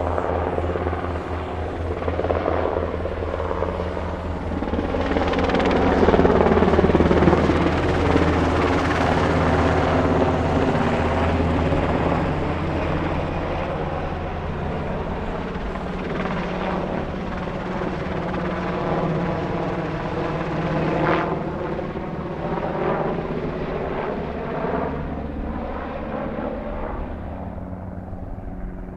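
UH-60 Black Hawk helicopter with its four-bladed main rotor chopping and its turbines whining. The sound is loudest about a quarter of the way in and then slowly fades, with the engine pitch bending as it moves.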